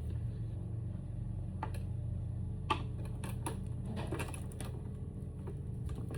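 Scattered sharp clicks and clinks of metal hand tools being worked on a battery's fasteners, the loudest a little under three seconds in and a run of them just after, over a steady low hum.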